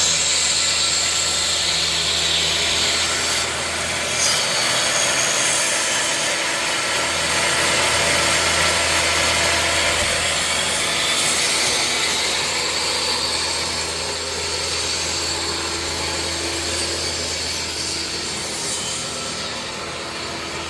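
An electric woodworking power tool runs steadily, working wood with a continuous rasping noise over its motor hum.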